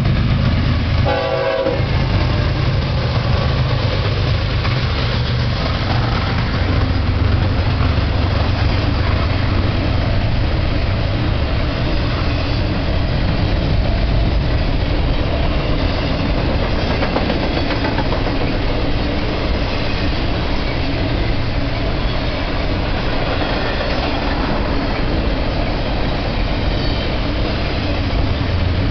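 BNSF double-stack freight train passing close by: the lead diesel locomotives go past at the start, with a short horn note about a second in, then a steady rumble and wheel clatter from the container cars rolling by.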